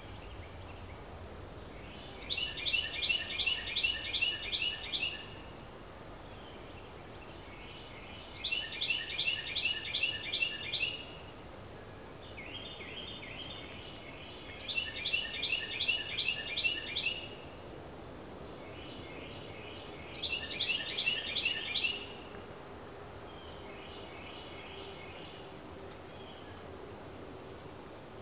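A songbird singing the same short phrase of rapid, evenly repeated notes, about two and a half seconds long, roughly every six seconds: four loud songs and two fainter ones. Steady outdoor background noise fills the gaps.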